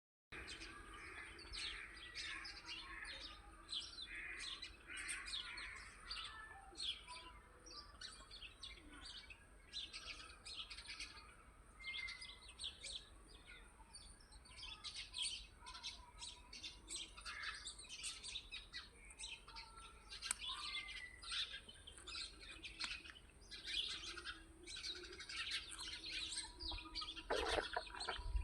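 Birds chirping, many short calls overlapping throughout, faint.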